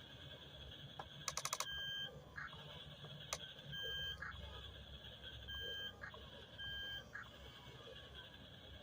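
Remote-control toy bulldozer's electronic sound effects: a steady high hum broken by short beeps about every one and a half seconds, like reversing beeps, with a quick rattle of clicks about a second in.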